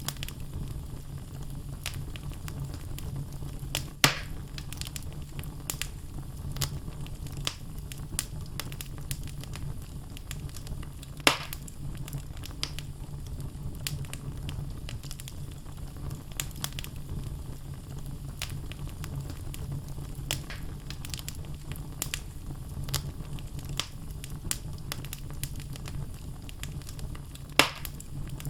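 Wood fire burning in a fireplace: a steady low rumble of the flames with frequent small crackles, and three louder sharp pops from the logs at about 4, 11 and 27 seconds in.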